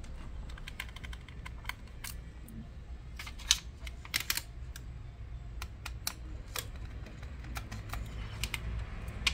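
Irregular light clicks and taps of small plastic and metal laptop parts being handled during disassembly, some coming in quick pairs, over a faint steady low hum.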